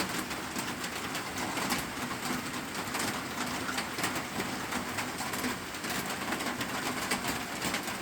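Steady heavy rain drumming on a metal roof: an even hiss made of many fine drop ticks.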